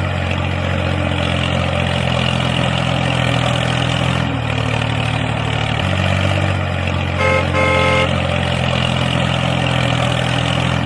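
Vehicle engine running steadily, its pitch shifting slightly twice, with two short horn toots about seven to eight seconds in.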